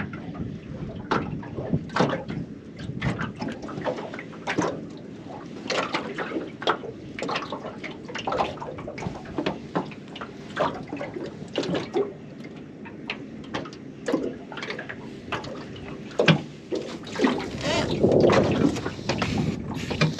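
Water lapping and slapping irregularly against the hull of a small aluminium tinny, with many short sharp splashes and knocks.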